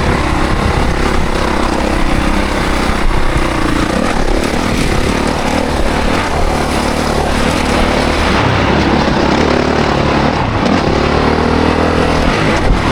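Honda CRF450 dirt bike's single-cylinder four-stroke engine under way on a trail ride, its pitch rising and falling as the throttle is worked and the bike is shifted, over a dense rushing noise.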